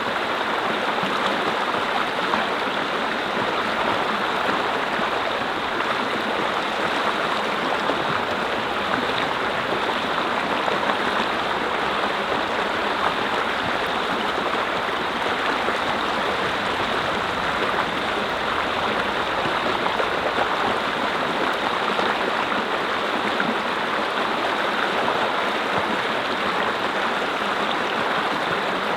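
Mountain brook flowing over rocks: a steady, even rush of running water.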